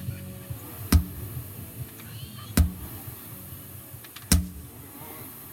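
Sledgehammer swung in a steady rhythm, landing three heavy strikes about a second and a half apart.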